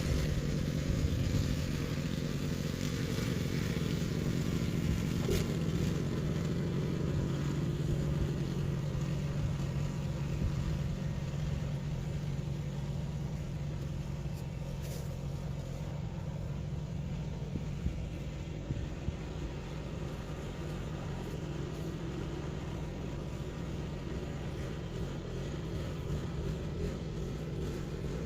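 An engine running steadily with a constant low hum, easing off slightly partway through.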